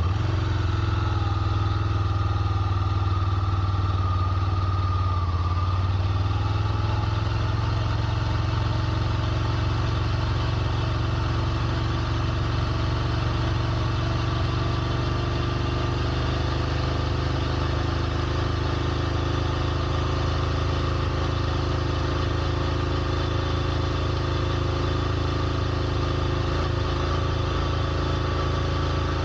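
Ducati Scrambler Nightshift's air-cooled 803 cc L-twin engine idling steadily.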